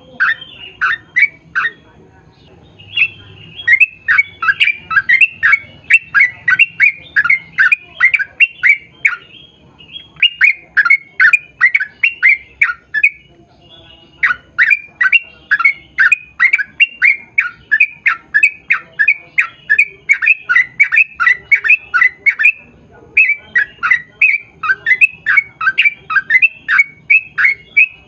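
Yellow-vented bulbul (trucukan) singing a long run of rapid, short down-slurred notes, about three or four a second, in loud bursts broken by brief pauses.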